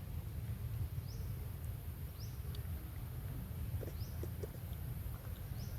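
Short, high-pitched rising chirps from an animal, repeating about every second and a half, over a steady low rumble.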